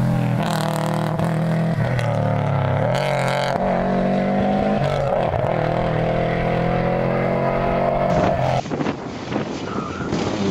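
Rally car engine at full throttle, its pitch climbing steadily with brief dips at the gear changes. About eight and a half seconds in, the sound cuts abruptly to another car's engine.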